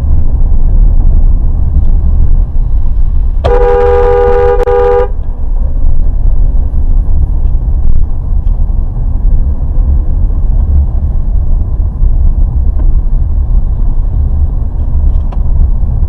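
A steady low rumble of a moving car, with a car horn honking once for about a second and a half, a few seconds in.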